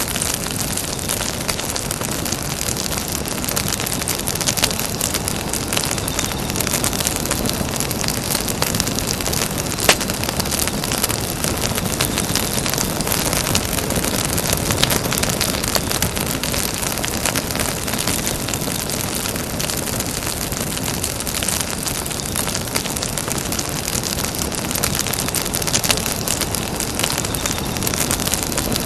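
Campfire burning: a steady hiss of flames with frequent small crackles and pops, one sharper pop about ten seconds in.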